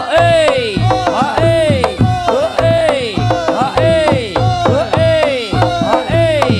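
Reog Ponorogo gamelan music: a shrill double-reed trumpet (slompret) plays swooping notes that bend up and fall back about twice a second over a steady drum beat.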